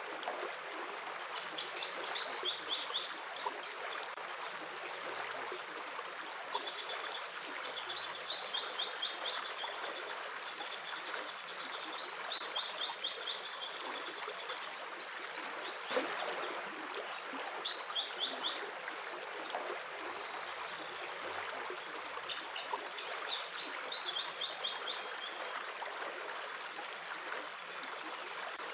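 Stream water running steadily, with a songbird singing a short trilled phrase of quick repeated notes that recurs about every five seconds.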